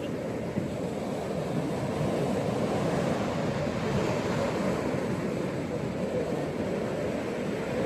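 Ocean surf washing onto a beach: a steady, continuous rush of waves that swells slightly partway through.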